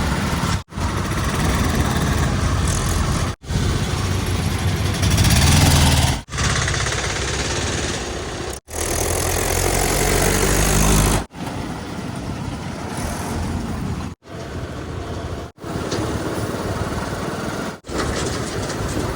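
Heavy diesel engines of construction vehicles running and revving, in a string of short clips a few seconds each, every clip cut off by a brief moment of silence. The engine sound grows heavier and louder in two of the clips, around the middle.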